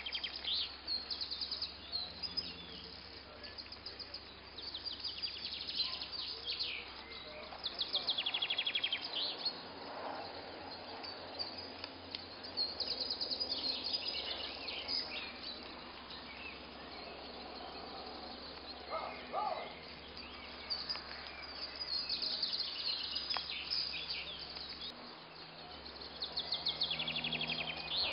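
Songbirds singing: rapid trilled phrases come and go every few seconds over a faint steady background hiss.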